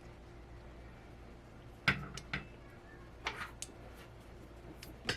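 Parts of a VESA monitor mounting adapter being fitted together by hand: a few sharp clicks and knocks, the loudest about two seconds in, another just after, a small cluster around three and a half seconds and one near the end.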